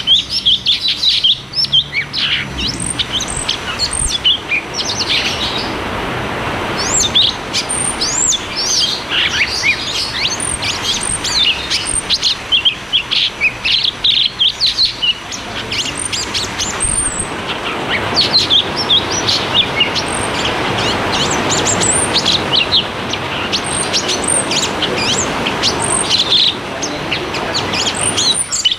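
Cucak cungkok singing a fast, continuous rolling song of rapid chirps and short whistled sweeps, with hardly a break, over a steady hiss.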